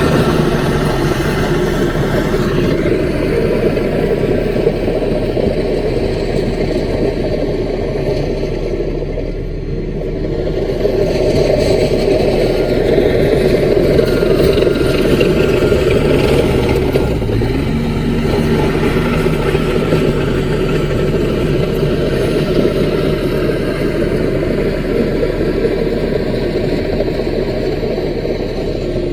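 Diesel engine of a small CAT crawler bulldozer running steadily under load, its note dropping briefly about a third of the way in and then picking up again.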